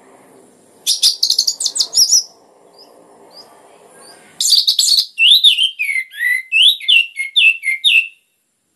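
Orange-headed thrush (anis merah) singing: two bursts of rapid, varied high notes, then a quick run of about a dozen short down-slurred whistles. The song cuts off abruptly near the end.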